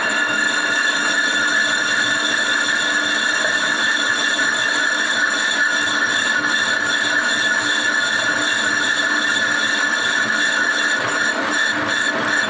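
Lathe turning a Suzuki APV brake disc, the cutting tool skimming the cast-iron disc with a steady metallic squeal made of several held tones.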